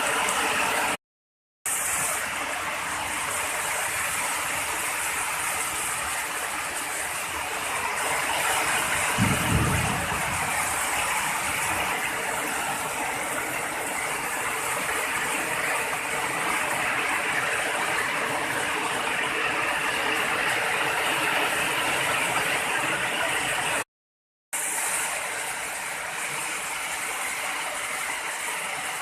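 Heavy rain pouring steadily, with a brief low rumble about nine seconds in. The sound drops out to silence twice for a moment.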